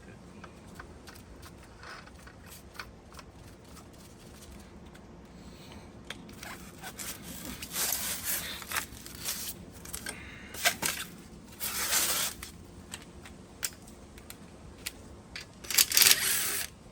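Pump parts being handled during reassembly: a few light clicks, then irregular scraping and rustling from about seven seconds in, loudest near the end.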